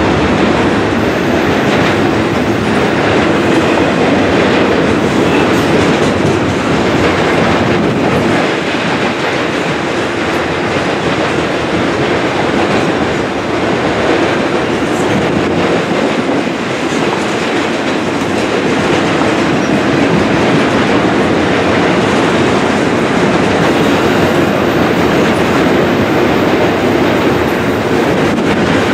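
Double-stack intermodal freight train's container cars rolling steadily past close by: steel wheels running on the rails, loud and continuous.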